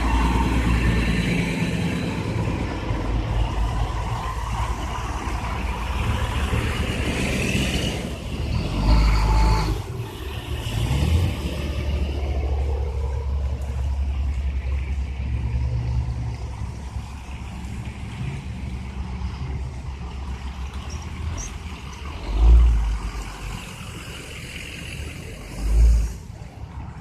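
Truck engines running in a convoy, a steady low rumble with three brief louder surges, about nine, twenty-two and twenty-six seconds in.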